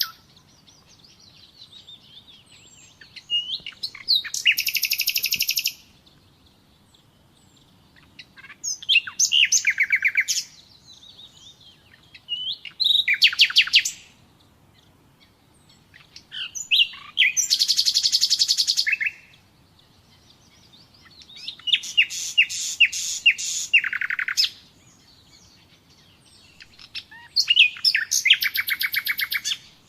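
Nightingale singing: about six separate song phrases of fast repeated notes and trills, each a second or two long, with pauses of about two seconds between them.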